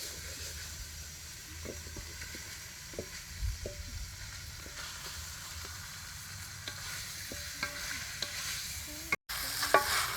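Food frying in a hot pan: a steady sizzling hiss with a few light clicks, likely from stirring. The sound cuts out briefly near the end, and the sizzle is louder after the cut.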